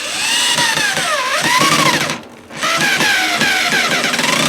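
Power drill driving a deck screw into wood, its motor whine dipping and rising in pitch as it slows under load. It runs in two bursts with a short pause about two seconds in.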